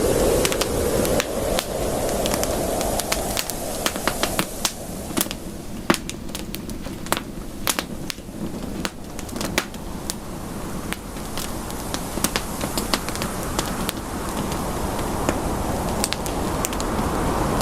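Campfire crackling: irregular sharp pops and snaps over a steady rushing hiss of flames. The hiss dies down a few seconds in and swells again near the end.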